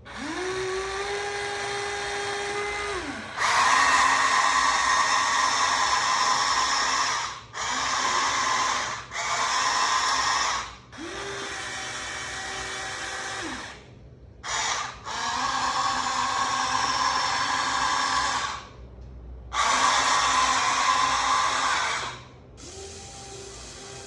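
Huina 1593 RC excavator's small electric gear motors whirring in repeated bursts of one to four seconds, each starting and stopping abruptly, some louder than others, with a steady hum under a few of them.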